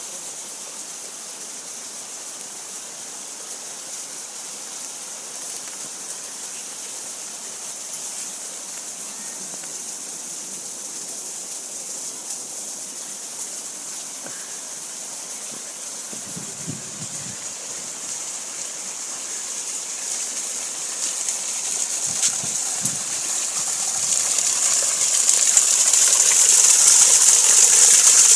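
Steady hiss of rushing water, growing louder over the last several seconds.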